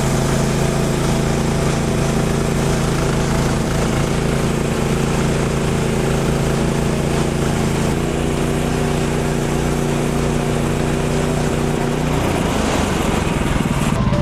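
Small gasoline engine running steadily at a constant speed, its pitch shifting slightly about eight and twelve seconds in.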